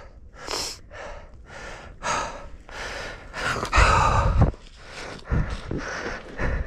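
A mountain biker breathing hard in quick, loud gasps while pedalling flat out. A short low rumble about four seconds in is the loudest moment.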